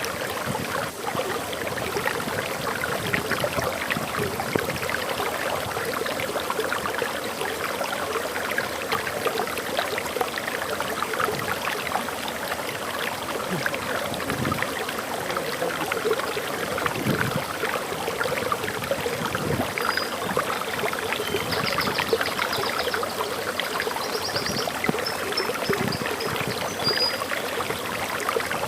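Forest waterfall flowing steadily, a dense wash of splashing water. Faint, high bird chirps come in about two-thirds of the way through.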